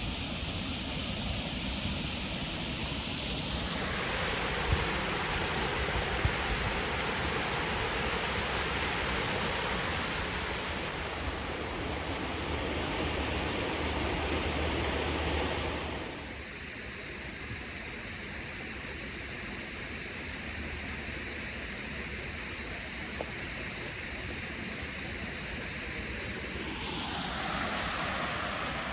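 Steady rushing of flowing water from a creek or waterfall, with low rumbling wind on the microphone; the sound drops in level abruptly about sixteen seconds in.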